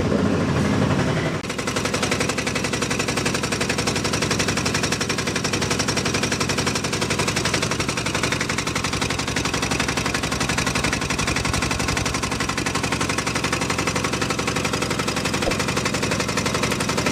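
Bajaj Maxima Z auto rickshaw's 470.5 cc single-cylinder diesel engine idling with a steady, rapid knocking clatter.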